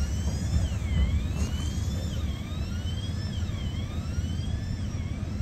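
Norfolk Southern manifest freight train's cars rolling past over street trackage, a steady low rumble. Over it, a high-pitched whine falls and rises again and again.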